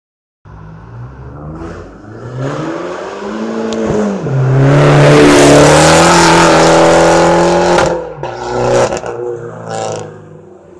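Abarth 595's 1.4-litre turbocharged four-cylinder engine accelerating toward and past. The engine note rises, dips once about four seconds in at a gear change, and is loudest as the car goes by. It cuts off sharply about eight seconds in, and a few short pops follow as it fades.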